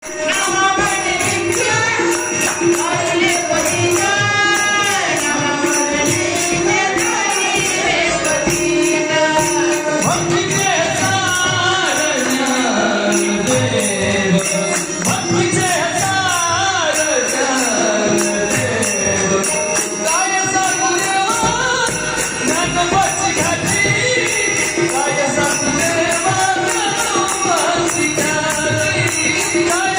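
Marathi devotional song (abhang): a singer's ornamented, gliding melody over a steady drone, with jingling percussion keeping an even beat.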